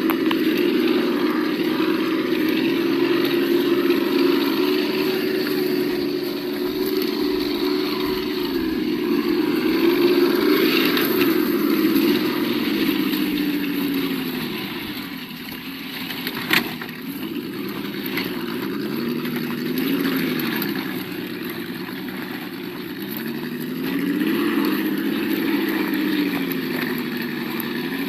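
Simulated engine sound from an RC crawler's sound module, its pitch rising and falling several times, with one sharp click a little past halfway.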